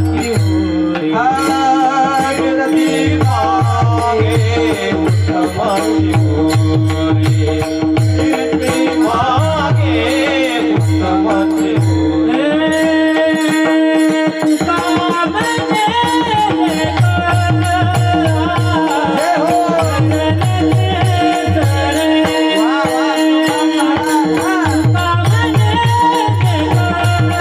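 A singer sings a devotional kirtan melody (chal) with wavering, ornamented lines over a steady drone, with regular low drum beats and a rhythmic jingling percussion.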